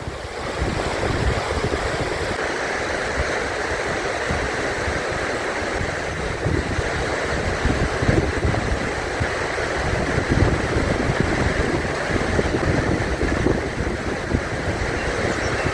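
River rapids rushing steadily, with an uneven low rumble of wind buffeting the microphone.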